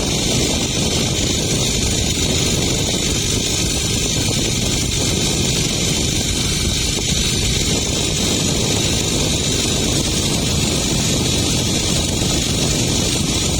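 Boat engine running steadily while under way, with a constant noise of wind and water.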